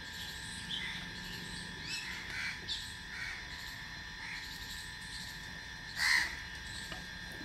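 Birds calling: scattered short chirps and one louder call about six seconds in.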